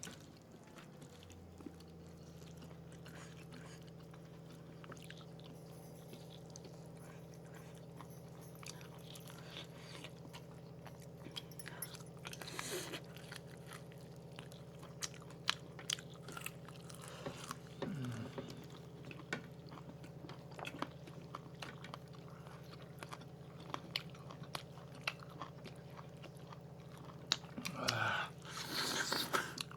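Close-up biting and chewing of roast chicken, with many sharp wet mouth clicks and occasional crunches. A few short hums falling in pitch come in the middle and near the end, and a steady low hum runs underneath.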